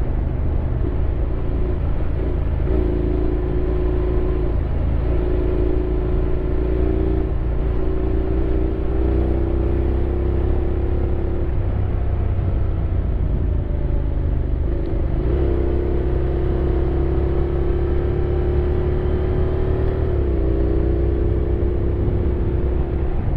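Honda X-ADV 750 parallel-twin engine running under way, heard from on board over a heavy low wind rumble; its note holds steady, drifting slightly with speed, and shifts abruptly in pitch a few times.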